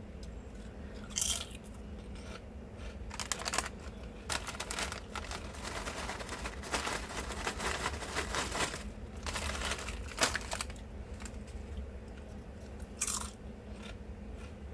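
A person chewing and crunching food close to the microphone, with irregular crisp crunches scattered throughout; a steady low hum runs underneath.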